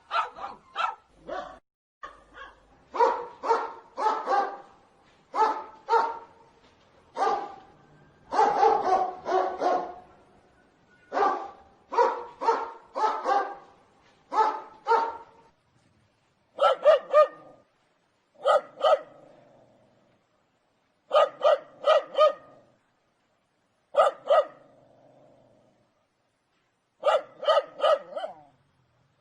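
Dogs barking in quick runs of two to five barks. From about halfway through, the runs are separated by gaps of a second or two, and the barks sound slightly different, as if from another dog.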